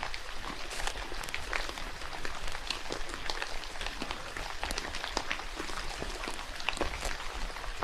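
Rain falling in a forest, with many irregular sharp drops pattering over a steady hiss of rainfall.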